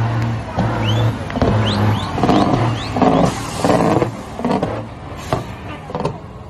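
Truck engine revved hard in repeated bursts, the way trucks are run up in a shifting competition. For the first couple of seconds a pulsing music beat plays underneath.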